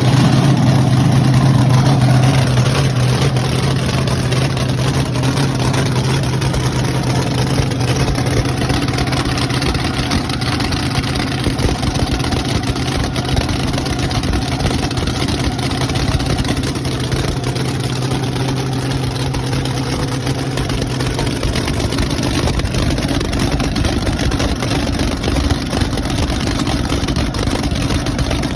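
Freshly rebuilt engine running steadily on its first start-up after new head gaskets. A strong low drone in its sound drops away about twenty seconds in while the engine keeps running.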